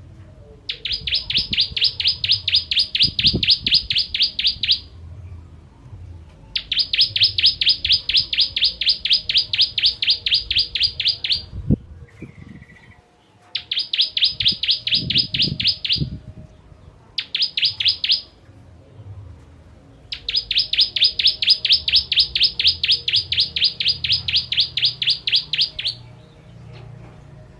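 Ciblek kristal, a prinia, singing runs of fast, evenly repeated sharp chirps, about seven notes a second, in five bursts of one to six seconds separated by short pauses.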